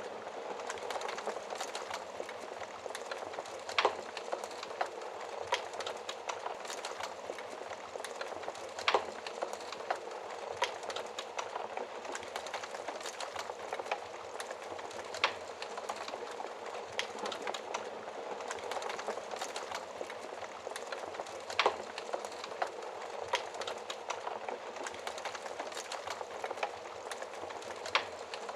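Wood fire burning in a fireplace: a steady hiss with frequent small crackles and a louder pop about every six seconds.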